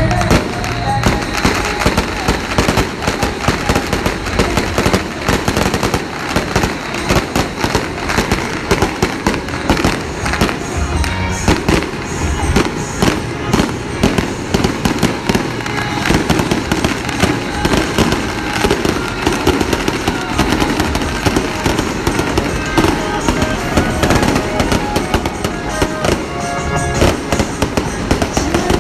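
Fireworks and firecrackers going off in a dense, continuous run of crackling bangs, with music playing under them.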